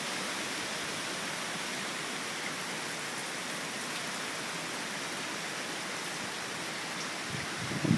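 Steady, even hiss of a wind and rain storm, with no gusts buffeting the microphone.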